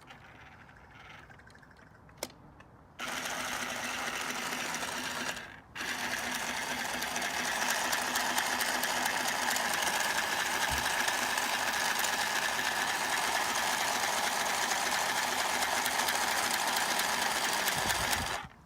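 Mini Singer sewing machine stitching fabric with a fast, even run of needle strokes. A short run of about two seconds comes first, then a brief stop, then a steady run of about twelve seconds before it stops. Before the first run there is quiet handling with a single click.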